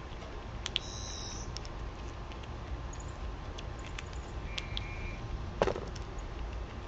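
Backyard feeding-spot ambience: two short high chirps from small birds, scattered small clicks and taps, and one louder knock about five and a half seconds in, over a steady low rumble.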